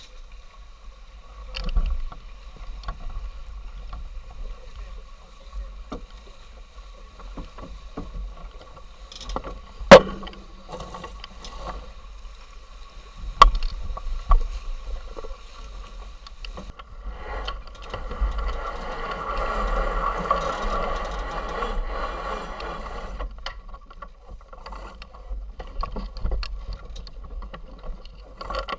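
Sailing yacht under way in a race: steady wind rumble on the microphone with water noise and scattered sharp knocks on deck, the loudest about ten seconds in and another about three seconds later. A louder rush of noise swells from about seventeen seconds in and fades about six seconds later.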